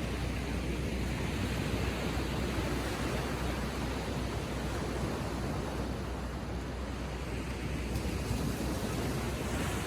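Gentle ocean waves lapping on the shore: a steady wash of surf with a low rumble underneath.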